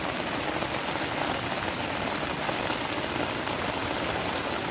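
Heavy rain pounding down, a dense steady patter of drops.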